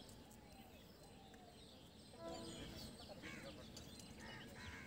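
Near silence: faint outdoor ambience with scattered small bird chirps, a little louder from about two seconds in.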